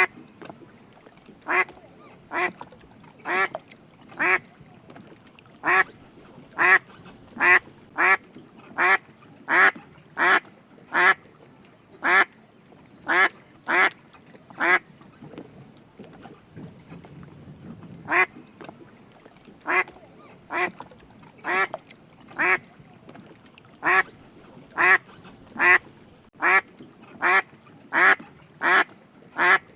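A duck quacking over and over, about one quack a second. There is a pause of a few seconds about halfway through, after which the quacking resumes.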